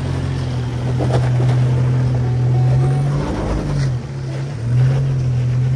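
Nissan GQ Patrol's engine running under load as the four-wheel drive crawls through a rocky waterfall crossing, the note dipping and picking back up about halfway through.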